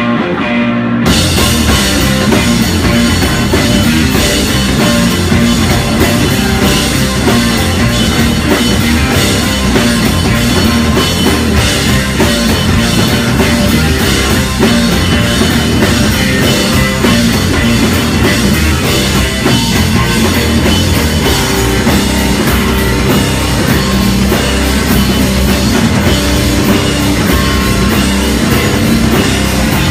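Live rock band playing loudly, with drum kit, electric guitar and bass in full swing.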